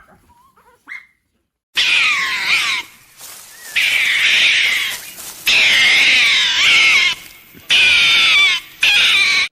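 An animal's long, high-pitched wavering cries, heard in five separately cut stretches with short gaps between them.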